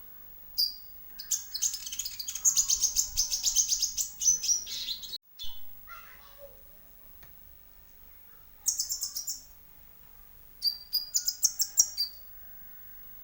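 Konin (kolibri ninja) sunbird singing: high, rapid trills of sharp chirps, a long run of several seconds, then shorter bursts twice more.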